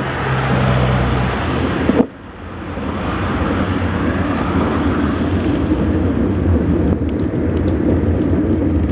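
Steady rumbling road and wind noise of travel, with an abrupt break about two seconds in.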